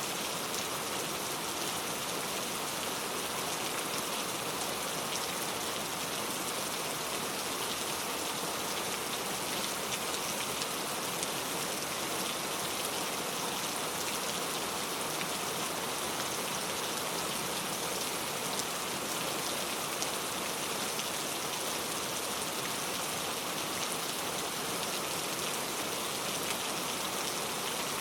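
Heavy rain falling steadily, drops tapping on a leaf-covered road in a dense, even patter.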